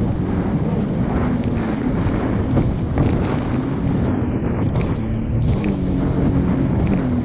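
Jet ski engine running under way, its note wavering a little, with wind rushing over the microphone.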